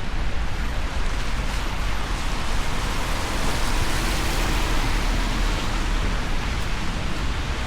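Steady rain falling, an even hiss, with a constant low rumble underneath.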